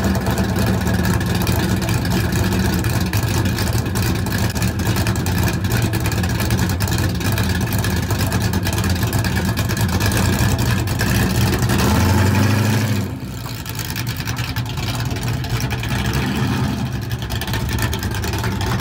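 1968 Dodge Dart's Mopar 360 small-block V8 running loud and steady at idle. About twelve seconds in it revs up briefly, and then its sound drops away as the car pulls off.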